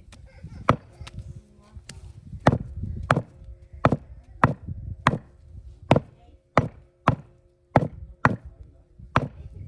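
Butcher's cleaver chopping goat meat and bone with a steady series of about a dozen sharp, separate chops, roughly one every half second to second.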